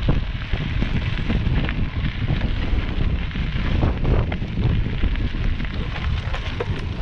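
Wind buffeting the microphone of a bike-mounted camera while mountain biking, with a constant crackle and ticking of tyres rolling over a loose, rocky dirt trail.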